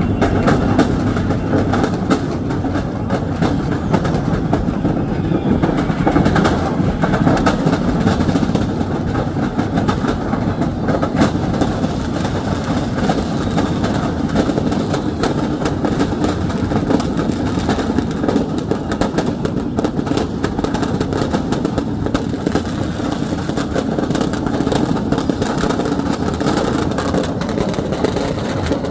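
Firecrackers burning in a shop fire: a steady loud din with dense, rapid crackling and popping.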